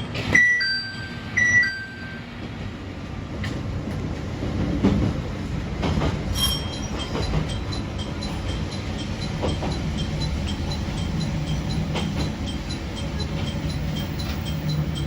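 Train running, heard from the cab, with steady rumble and rail noise. Near the start a two-note cab chime sounds twice in quick succession, typical of the ATS warning chime. From about halfway on, a faint high ticking repeats evenly.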